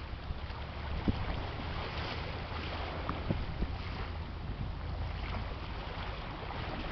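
Wind buffeting the microphone over a steady low rumble, with a few light knocks about a second in and again around three to three and a half seconds.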